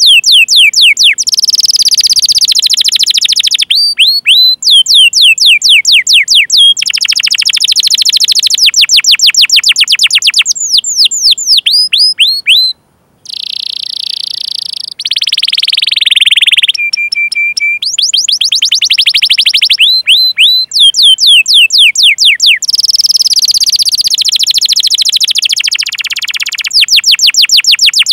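Domestic canary singing: fast runs of repeated down-slurred 'cuit cuit' call notes alternating with long, dense rolling trills. There is a short break in the song about 13 seconds in, and a brief steady note a few seconds later.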